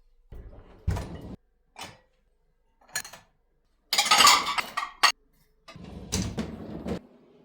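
Everyday handling sounds of objects being moved and set down: a few short knocks and clicks, then a louder rustling, scraping burst about four seconds in that ends in a sharp click, and more clattering near the end.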